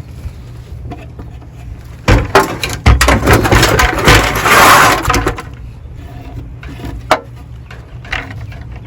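Crawl space access door being put back in its opening: a run of knocks and scraping for about three seconds, loudest in the middle of the run, followed by a couple of lighter knocks.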